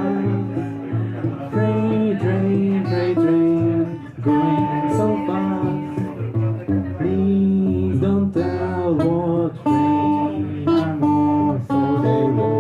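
Acoustic guitar played fingerstyle with a thumbpicked alternating bass, with a male voice singing over it.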